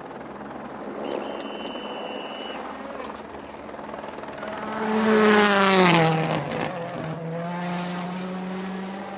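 A World Rally Car's 1.6-litre turbocharged four-cylinder engine passing at speed on a special stage. It builds to its loudest about five seconds in, then drops in pitch as the car goes by and draws away.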